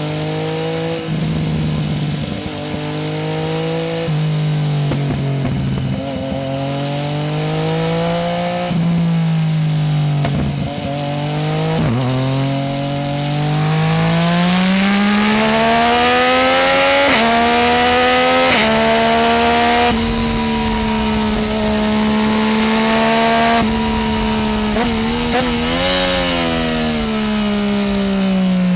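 Yamaha Tracer 900 GT's three-cylinder engine running through a full Roads Italia aftermarket exhaust while riding: the note rises and falls with throttle and gear changes for the first part, then climbs steadily about halfway in, holds a higher steady pitch, and drops back near the end.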